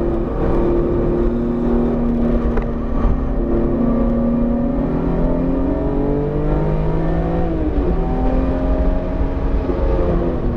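BMW E46 M3's S54 straight-six pulling hard, its pitch climbing slowly through a gear, then dropping sharply about eight seconds in before carrying on. The engine is freshly built and still being broken in, kept below 7,000 rpm.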